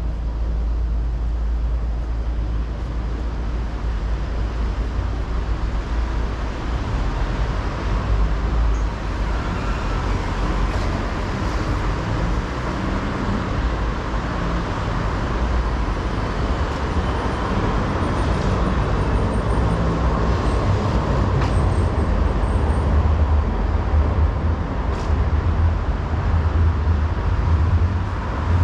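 Busy city street traffic: cars and buses passing with a steady low engine rumble and tyre noise, and a faint high squeal around the middle.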